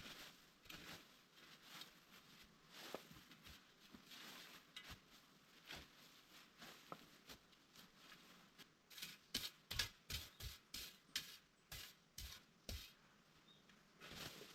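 Faint rustling and crackling of leaves and twigs on the forest floor, with scattered short crackles that turn into a quick run of sharper cracks about nine seconds in, lasting some four seconds.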